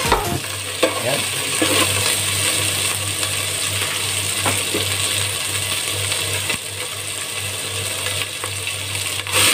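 Sliced onions and chopped garlic frying in oil in a steel pot: a steady sizzle with fine crackling, over a steady low hum.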